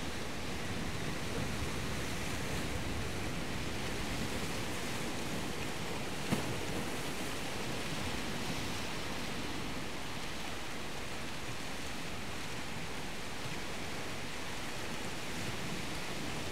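Steady wash of surf, an even rushing noise that holds level throughout, with a single sharp click about six seconds in.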